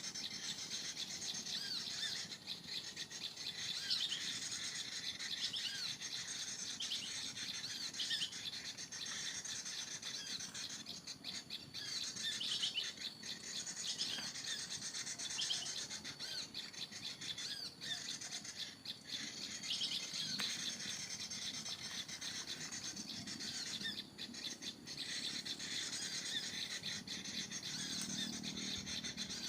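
Small birds chirping, with many short, high, quick calls following one another and overlapping.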